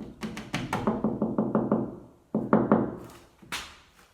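A quick run of hollow knocks and thuds, several a second, thinning out in the second half with one louder knock near the end.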